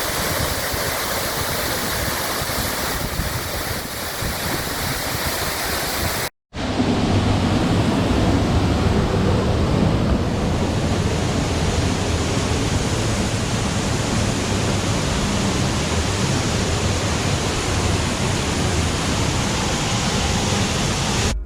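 Waterfall rushing: a steady, dense noise of falling water. It breaks off for a moment about six seconds in and resumes louder and deeper.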